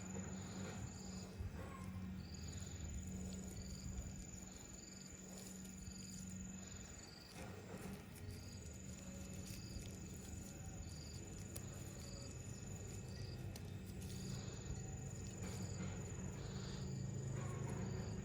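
Insects calling: a high, steady trill that goes on for about four to five seconds at a time with short breaks, and short chirps repeating about twice a second. A steady low hum runs underneath.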